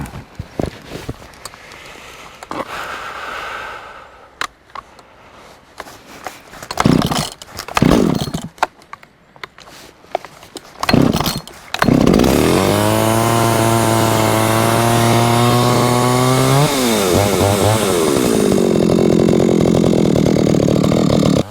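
Two-stroke chainsaw being started: some knocks and several loud pulls of the starter cord, then the engine catches about twelve seconds in and runs at high revs. The revs drop and pick up again about seventeen seconds in.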